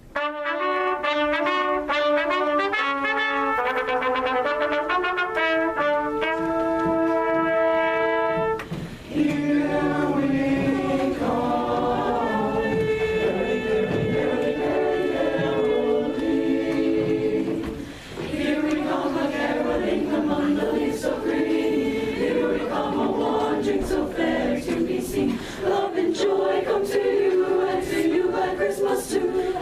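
Brass fanfare of held chords for about eight seconds, then fuller music of brass and choir together.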